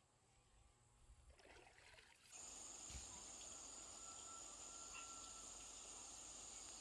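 Faint outdoor ambience. About two seconds in, a steady high-pitched insect drone begins and holds on.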